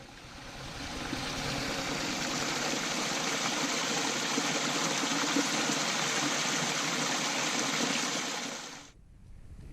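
Steady rushing water like a stream, fading in over about a second and cutting off abruptly near the end.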